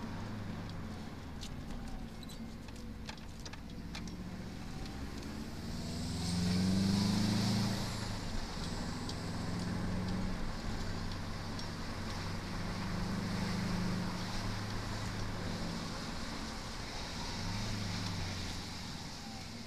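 Subaru Impreza GC8 WRX STi's turbocharged flat-four engine heard from inside the cabin, pulling harder and easing off several times as the car is driven, the loudest pull about seven seconds in, over steady tyre and road noise.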